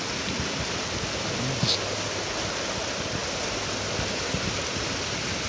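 Small creek's run of water flowing steadily, a constant rushing hiss of moving water.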